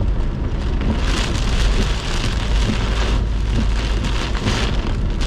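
Heavy rain pelting a car, heard from inside, its hiss swelling and easing every second or so over a steady deep rumble.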